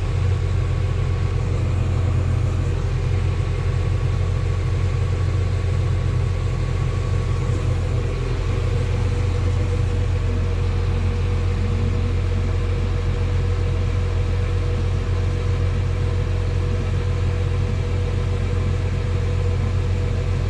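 Farm tractor engine running steadily with a constant low drone.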